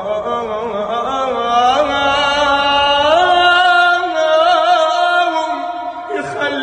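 Singing in an Arabic lament-style song: a voice holds long, ornamented notes with no words. The pitch steps up about two seconds in and wavers near the end.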